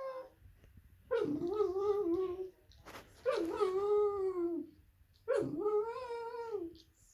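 A dog making long, whale-like howling moans: three drawn-out calls, each rising quickly in pitch at the start, holding, then dropping off at the end. It is demanding vocalizing, kept up until the dog gets what it wants.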